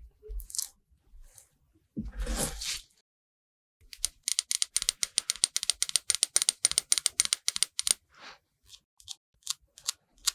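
A short rub with a dull thud, then about four seconds of fast, even tapping, about nine crisp taps a second, then a few scattered taps: makeup being tapped and dabbed onto a watermelon's rind.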